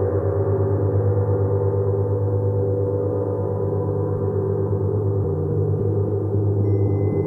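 Gong sounding a long, steady wash of many overlapping tones with a fast pulsing shimmer and a strong deep hum. Near the end a thin, high, pure tone joins it.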